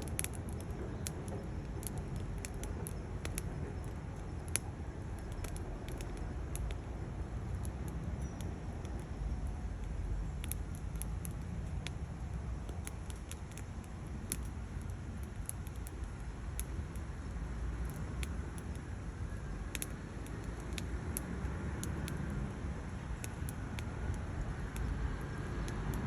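Split firewood burning in a stainless steel Bushbox XL stove, crackling with many irregular sharp pops over a steady low rumble.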